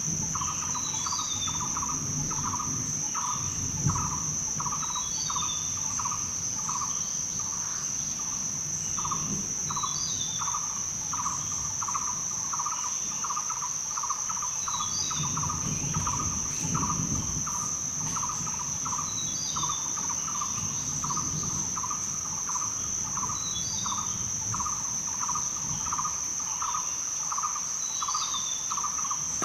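Rainforest ambience: a steady high-pitched insect drone, under it a lower call pulsing about twice a second, and a short bird chirp repeating every four to five seconds.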